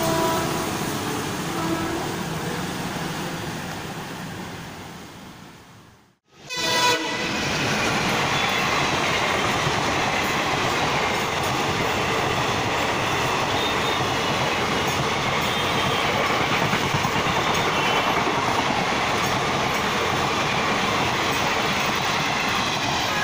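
A train horn sounds briefly near the start, then the train sound fades away to a sudden cut about six seconds in. After that, a passenger train's coaches rush past close by with steady wheel rumble and clatter over the rail joints.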